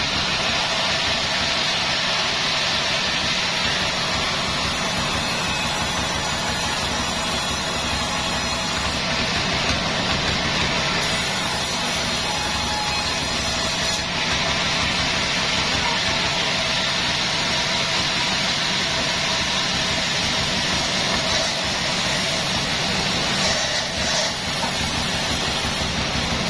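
Sawmill machinery running steadily: an engine-driven saw with an even drone and hiss that holds throughout.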